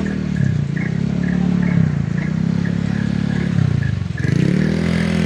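Heavy diesel truck engine straining under load on a steep climb. Its revs are held, then drop briefly and pick up again about four times. A faint, regular ticking runs alongside.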